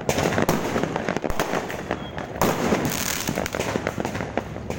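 Fireworks going off in a dense barrage: many rapid bangs and crackles overlapping without a break.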